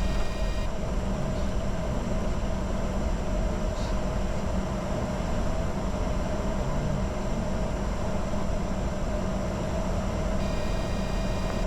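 Steady cockpit noise of a Bombardier Challenger 605 in descent: a constant rush of airflow over the airframe with a low rumble and a steady hum from the turbofan engines, heard from inside the flight deck.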